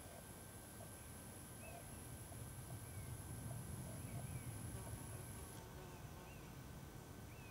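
Faint outdoor quiet with scattered short bird chirps over a low rumble that swells in the middle. A thin high whine cuts off suddenly near the end.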